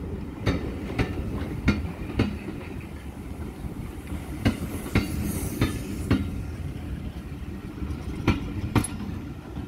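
Railway passenger coaches rolling slowly past, their wheels knocking over a rail joint in pairs of clacks about half a second apart as each bogie crosses, over a steady low rumble.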